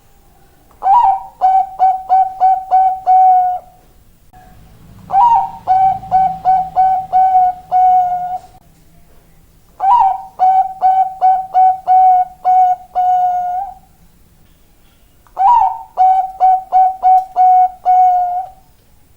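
Zebra dove (Bangkok perkutut) cooing: four song phrases, each a quick run of about seven short, clipped coos on one note lasting some three seconds, with pauses of about a second between phrases.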